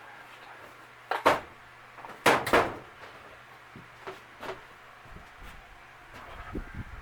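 A few wooden knocks and clunks, as of boards or cabinet parts being handled and set down. The loudest pair comes about two seconds in and a lighter pair around four seconds in, over a faint steady hum.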